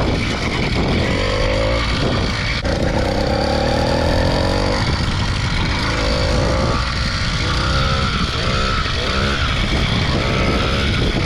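80cc two-stroke motorized bicycle engine running under way, its pitch rising and falling several times as the throttle is worked, with heavy wind buffeting on the microphone.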